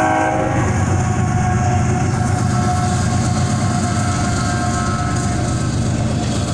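Diesel-hauled freight train passing at a grade crossing, with locomotive engines and wheels on the rails making a loud, steady rumble. The tail of a horn chord cuts off about half a second in.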